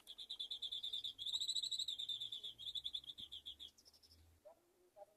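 A bird's rapid chattering trill, about ten high notes a second, in two runs with a short break about a second in, stopping a little before four seconds; two faint short calls follow near the end.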